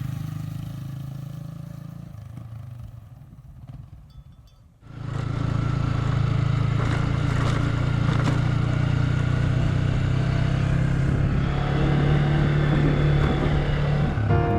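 Music fading out, then about five seconds in a motorcycle engine cuts in suddenly, running steadily under way with a continuous drone. The bike is the rider's Yamaha Vixion 150 single.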